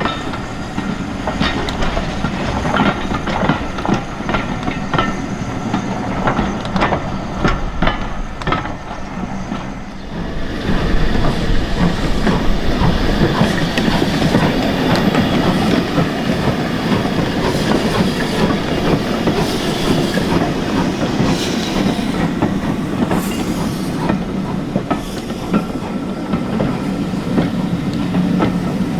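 Train running past on the rails, its wheels clicking over the rail joints; about ten seconds in the sound turns louder and denser as it comes closer.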